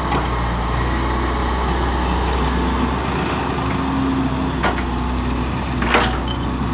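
Diesel engine running steadily, with two sharp knocks, the louder one near the end.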